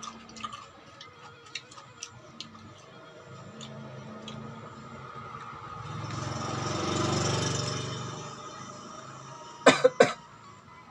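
Close-up crunchy chewing of raw fruit and vegetables, heard as small sharp clicks in the first few seconds. About halfway through, a low rumble swells and fades, and near the end two loud, short coughs.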